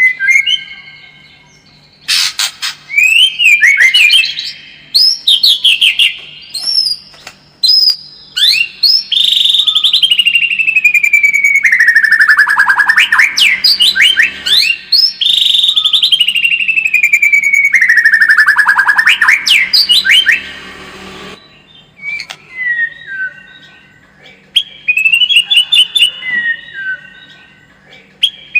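White-rumped shama (murai batu) singing a loud, varied song of whistled and chattering phrases, with two long trills sliding downward near the middle and softer phrases toward the end. A faint steady low hum runs underneath.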